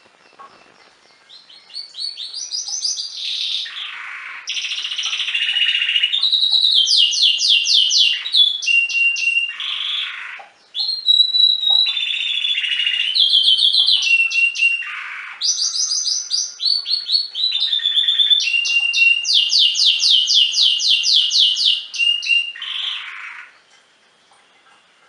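Domestic canary singing a long song made of rapid trills, each a quick run of repeated high notes, with changes of phrase. It starts a second or two in, breaks off briefly about ten seconds later, and stops a second or so before the end.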